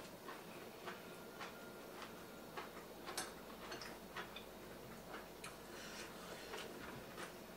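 Close-miked chewing of barbecued pork belly: soft, irregular mouth clicks and smacks, roughly one or two a second.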